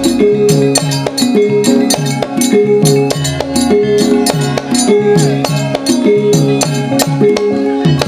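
Javanese gamelan music: a repeating melody of struck metal keys with frequent sharp drum strokes.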